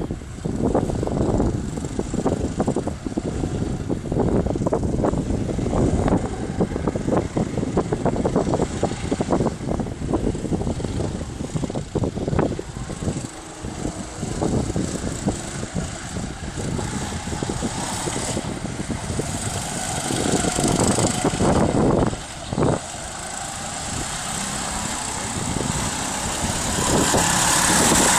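Go-kart engines running, a rough, uneven engine noise that gets louder and steadier over the last few seconds.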